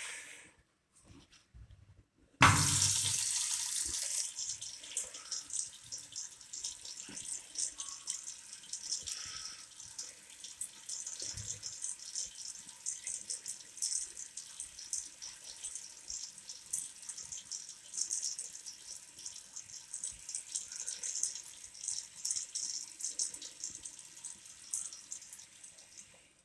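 Tap water running into a small wall-mounted sink basin and splashing. It comes on suddenly about two seconds in, loudest at first, and shuts off just before the end.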